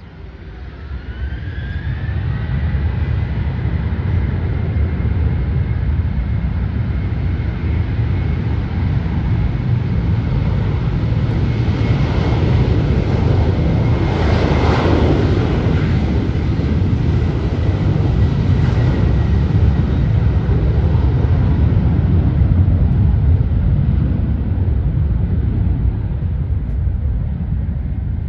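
Jet airliner passing close by: a deep engine rumble swells over the first few seconds with a high whine that rises and then holds steady, is loudest around the middle, and begins to fade near the end.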